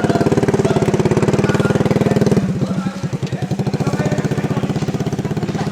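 Small motorbike-type engine running close by, having just started. About two and a half seconds in its note drops, and it then runs on, slowly getting quieter.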